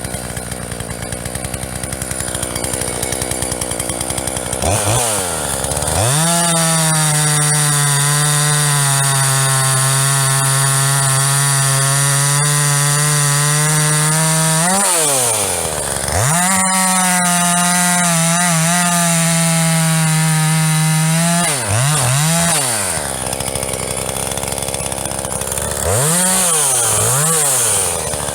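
Two-stroke gasoline chainsaw cutting firewood. It revs up and runs at full throttle for long stretches of several seconds, drops back to idle between cuts, and is blipped quickly a few times before the next cut.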